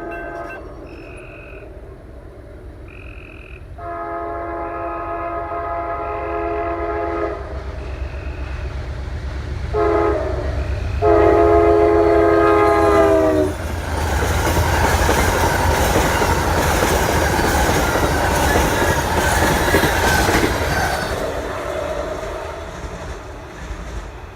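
Train horn blowing the grade-crossing signal, long, long, short, long, as a train approaches; the pitch drops slightly during the last long blast as it reaches the camera. The train then rushes past with wheel clatter, fading near the end.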